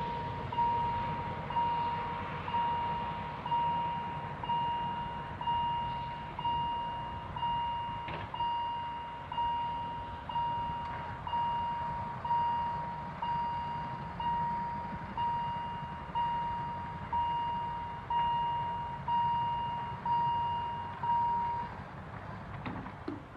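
Level crossing warning bell ringing about once a second, each strike sharp and then dying away. It stops near the end, as the crossing signal ends.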